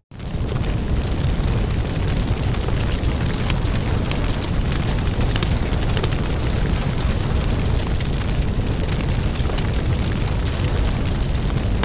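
Wood fire burning in a fireplace: a steady low rush of flames with dense small crackles and pops. The sound drops out for a split second at the very start, then comes straight back.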